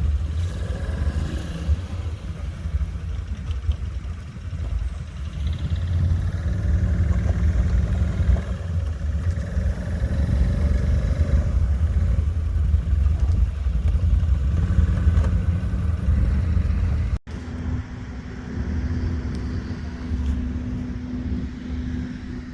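Low, uneven rumble of motor vehicle engines running. About 17 s in the sound breaks off for a moment, then resumes with a steady low hum added.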